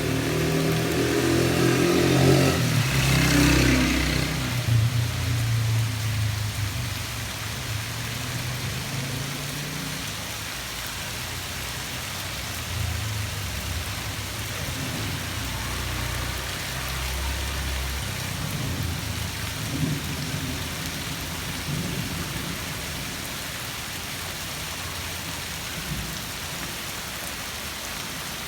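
Steady rain falling. A louder low rumble swells over the first few seconds and fades by about ten seconds in, with a few fainter low rumbles later.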